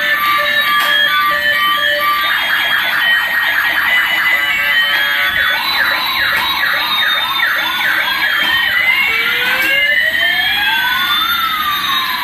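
Toy police car's electronic siren sound chip cycling through patterns. It starts with a pulsed beeping, about two seconds in switches to a fast warble, then slower rising chirps, and near the end two long wails glide up and down across each other.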